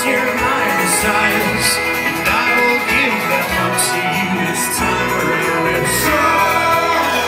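A folk-rock band playing an instrumental passage: strummed acoustic guitar and other string instruments over a drumbeat with cymbal hits.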